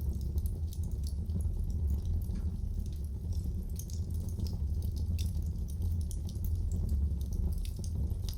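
Wood fire burning in a fireplace: a steady low rumble with frequent small crackles and pops at irregular intervals.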